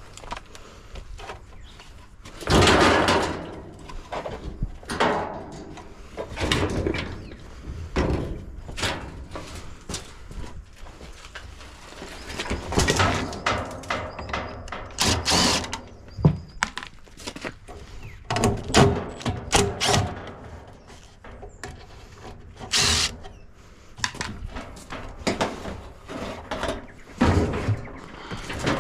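Parts of a dishwasher being pried off and handled during teardown: irregular knocks, thunks and clattering, with a few louder bouts of scraping and clanking metal.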